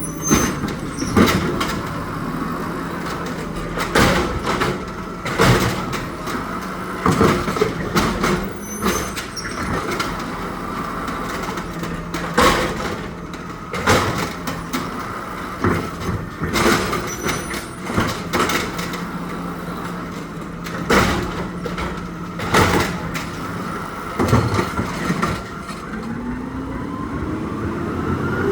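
Garbage truck collecting trash: its diesel engine running steadily under repeated metallic clanks and bangs as bins are dumped. Near the end the engine's pitch rises steadily.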